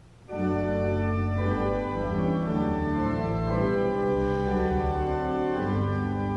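Organ playing sustained chords, starting suddenly just after the beginning and moving from chord to chord every second or so.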